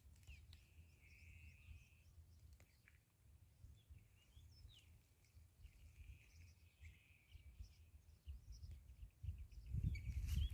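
Faint bird chirps and short calls over a low rumble of wind on the microphone, with a louder rumble building near the end.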